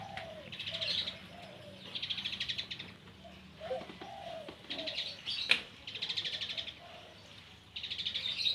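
Red-breasted parakeet giving a series of short, rapid rattling calls, each under a second long, repeated every second or so. A sharp click comes about five and a half seconds in.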